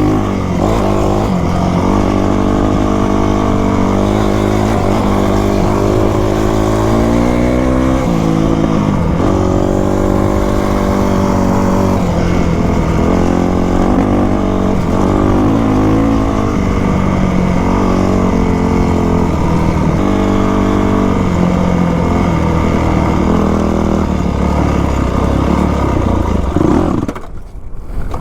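2000 Yamaha YZ250's two-stroke single-cylinder engine running under throttle as the dirt bike is ridden, its pitch rising and falling with the revs. The engine note drops away near the end.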